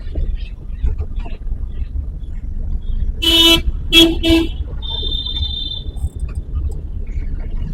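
Vehicle horn honked three times, one longer blast then two short ones, over the steady low rumble of a car driving in traffic. A shorter high-pitched tone follows about a second later.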